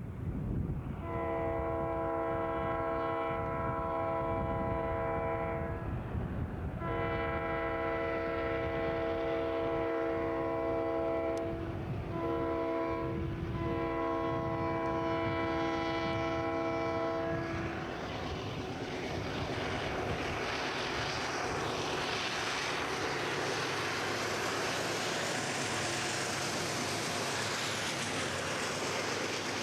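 Locomotive multi-chime air horn blowing two long blasts, a short one and a final long one, the long-long-short-long grade-crossing signal. The train then comes up and passes, with a rising rush of locomotive engine and wheel noise that is loudest near the end.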